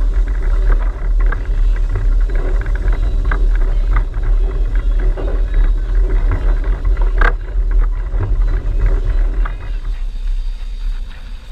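A heritage passenger train behind 2-8-0 steam locomotive CNR 2141 running along the track, heard from aboard: a steady low rumble with irregular clicking and clatter of wheels on the rails, and one sharp click about seven seconds in. Near the end the sound drops quieter.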